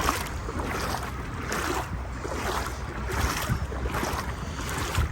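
Legs wading through knee-deep floodwater, a rhythmic swish and slosh of water with each stride, over the low rumble of wind on the microphone.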